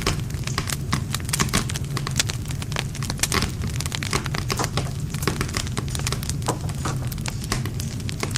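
Wood campfire crackling and popping, with quick irregular snaps over a steady low rumble of the flames.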